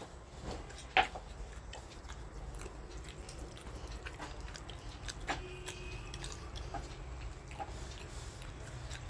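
Eating sounds: chewing with scattered small clicks and knocks, one sharper click about a second in.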